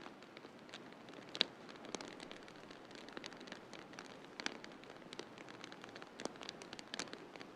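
Wood fire crackling in a fireplace: irregular sharp pops and snaps over a steady soft hiss, the loudest pop about a second and a half in.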